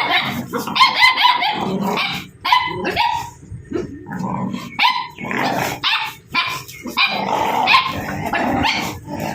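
Dogs barking and yipping over and over, with short gaps between the calls.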